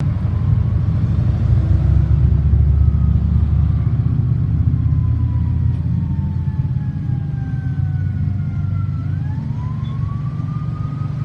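Fire engine driving by on a response: a loud low engine rumble that is strongest in the first few seconds and then eases off, with a siren wailing faintly over it, its pitch falling slowly and then rising again near the end.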